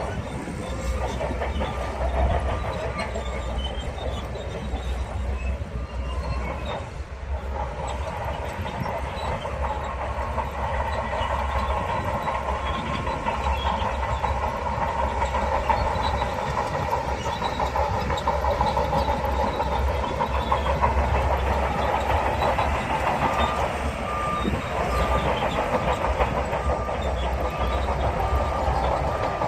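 Crawler bulldozer working, its diesel engine running under load while the steel tracks clank and rattle continuously. A reversing beeper sounds in the last few seconds.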